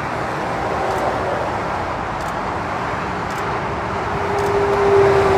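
Steady roar of motorway traffic, lorries and cars passing below at speed with their tyres and engines, swelling near the end as a vehicle passes close and a steady humming tone comes through.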